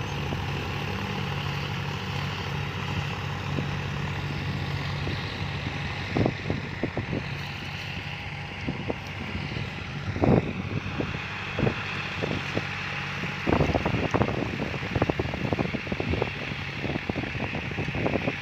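John Deere farm tractor's diesel engine running steadily under load while pulling a six-disc plow, with wind buffeting the microphone. Scattered sharp knocks start about a third of the way in and grow thicker near the end.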